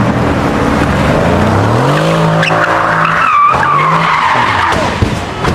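High-performance car engine revving hard as the car accelerates away, its pitch climbing, with a short break about three seconds in. A squealing, tyre-like whine rides above it and falls away near the end.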